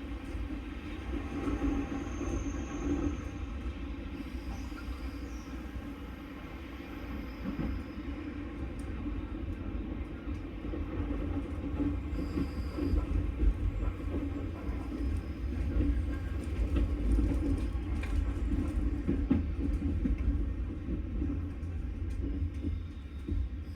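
Passenger train running along the track: a steady low rumble of wheels on rail that swells and eases slightly.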